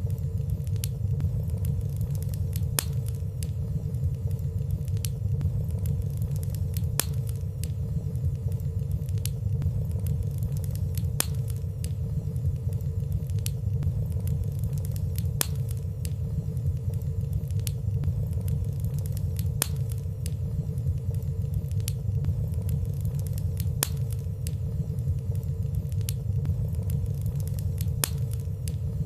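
Wood fire burning steadily in a fireplace: a constant low rumble with light, scattered crackles, about one or two a second, and no loud pops.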